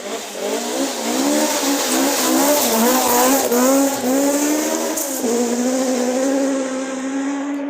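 Rally car driven hard along a gravel forest stage: the engine revs climb and drop repeatedly through gear changes, then hold steady, over a continuous hiss of tyres on loose gravel.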